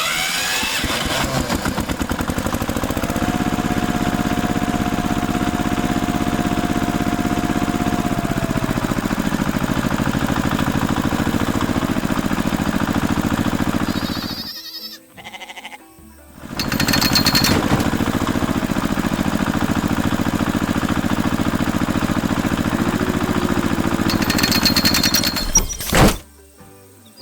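A harvester machine running with a steady, rapid rattle over background music, stopping for about two seconds halfway through before starting again.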